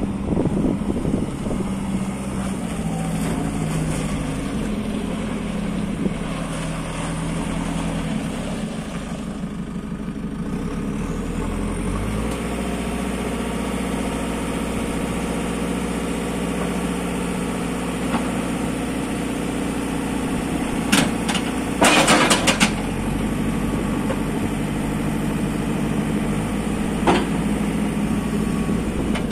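Diesel engine of a JCB 3CX backhoe loader running steadily, its speed shifting up and down a few times. A short burst of loud metallic clatters comes about two-thirds of the way through, with another single knock a few seconds later.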